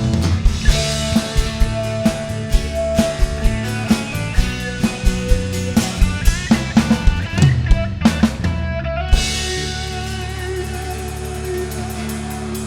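Live rock band playing: drum kit hits with bass drum and snare under guitar. About nine seconds in the drums stop and a held chord rings on.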